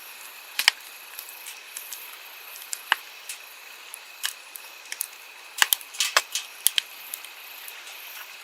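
Wood campfire crackling, with sharp pops and snaps of burning firewood, a quick cluster of them about two-thirds of the way in. Under it a steady rush of flowing stream water.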